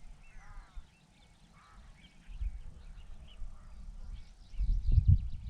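Birds calling: many short, high chirps and a couple of harsher, lower calls early on. A low rumble builds from about two seconds in and is loudest near the end.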